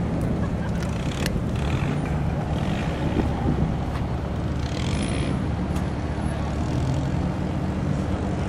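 Maserati GranCabrio's 4.7-litre V8 idling steadily at a constant low pitch, with no revs. A brief hiss comes about five seconds in.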